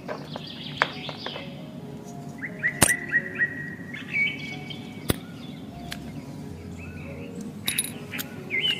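Small birds chirping in runs of quick, repeated notes, with a few sharp clicks and taps from a thin metal strip being handled and laid down.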